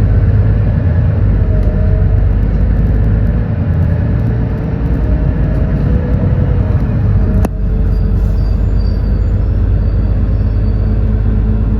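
Smart 110G city bus's GX12P natural-gas engine running while the bus drives: a steady low rumble with a faint whine that rises and falls. A sharp click comes about seven and a half seconds in.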